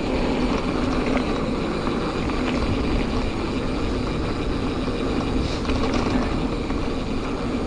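Giant Fathom 2 hardtail mountain bike rolling along a dirt trail: a steady rolling noise with a low rumble, and a few faint mechanical ticks about two-thirds of the way through.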